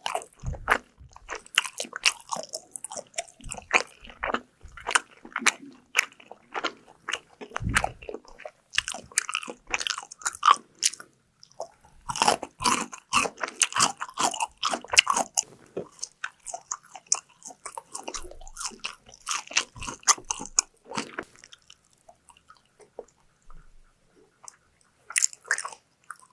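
Close-miked eating ASMR: crunchy bites and chewing of fried food, dense and loud for most of the stretch, then thinning out to a few quiet sounds with one short crunchy burst near the end.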